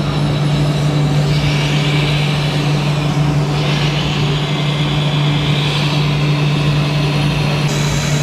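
Remote-control model truck running: a steady low drone with a higher whine that swells about a second in, dips briefly near the middle and fades near the end.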